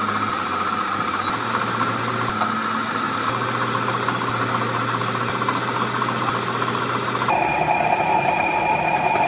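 Workshop machinery running with a steady hum. About seven seconds in it switches abruptly to a different steady machine sound with a higher tone.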